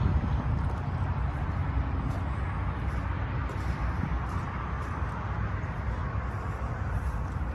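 1996 Freightliner FLD semi truck's diesel engine idling with a steady low rumble.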